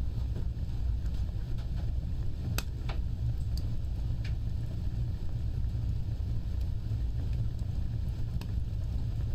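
Wood fire burning with a steady low roar of flames and a few sharp crackles and pops scattered through it.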